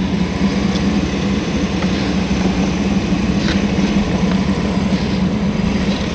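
A vehicle engine idling steadily with a constant low hum, with a few faint clicks over it.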